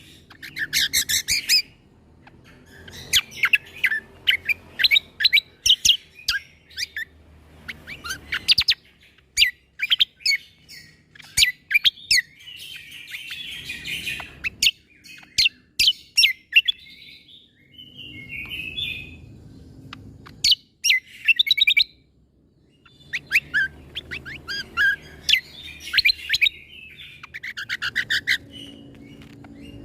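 Cucak kombo (kecial kombo) singing loudly in repeated bursts of sharp, rapid 'shot'-like notes (the 'tembakan' style), each phrase a second or two long with short pauses between.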